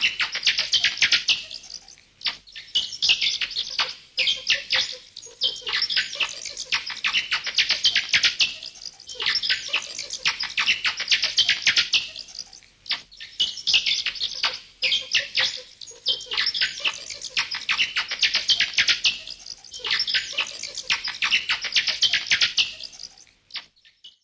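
Bats chattering: bouts of rapid high-pitched squeaks and clicks, each a few seconds long, following one another with brief dips between.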